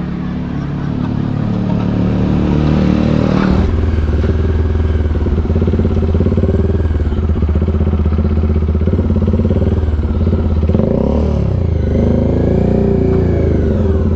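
Bajaj Dominar 400 motorcycle's single-cylinder engine, fitted with an SC Project aftermarket exhaust, running as the bike pulls away and rides on. The engine sound builds over the first couple of seconds, changes about three and a half seconds in, then holds steady, with the pitch dipping and rising again near eleven seconds.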